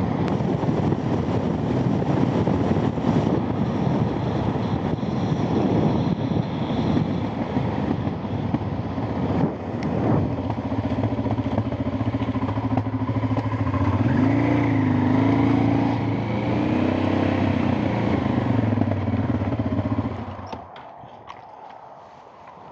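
Motorcycle riding on the road: engine running under heavy wind and road noise. The engine note rises briefly about two-thirds of the way through, and the sound falls away sharply near the end as the bike slows and stops.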